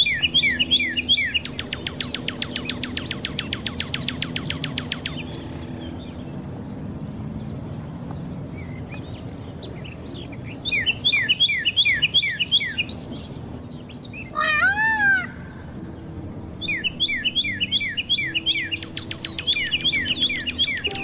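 Birdsong: clusters of short, quick downward-sweeping chirps that come and go, with a fast trill in the first few seconds and one louder rising-and-falling call about two-thirds of the way through, over a low steady hum.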